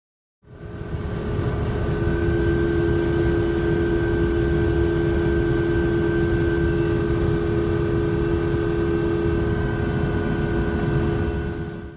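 2005 Ford F-150 rear differential (9.75-inch ring gear, 3.73 ratio) whining at a steady pitch over low road rumble while driving. The whine is the sign of a differential that needed rebuilding.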